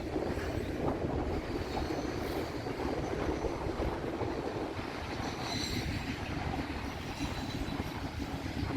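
Freight train's cars rolling past on the rails: a steady rumble of wheels on track, with a faint high wheel squeal a little past the middle.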